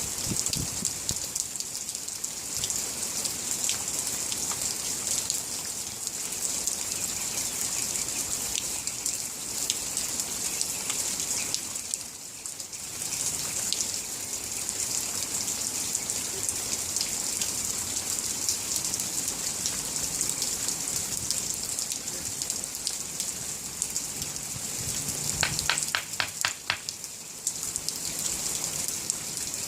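Steady rain falling, with scattered drops ticking close by. Near the end, a quick run of about half a dozen clicks.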